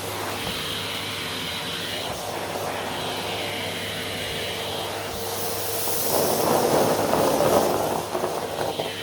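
Vacuum cleaner running steadily with a constant hum, its airflow swelling and fading with each stroke across the floor. There is a louder rushing surge from about six to eight seconds in.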